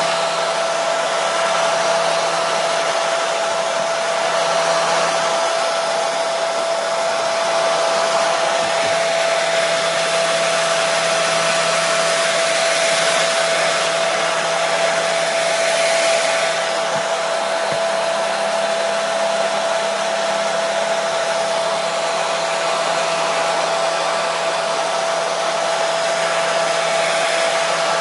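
Hair dryer running steadily: a continuous rush of blown air with a steady motor whine over a low hum.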